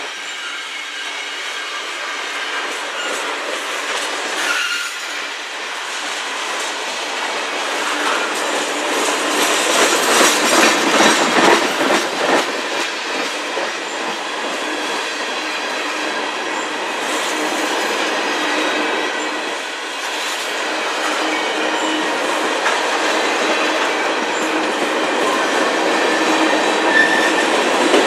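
Freight train tank cars rolling past close by: steel wheels clacking rhythmically over rail joints under a steady rumble, loudest about a third of the way through. A thin high wheel squeal comes briefly about four seconds in and again near the end.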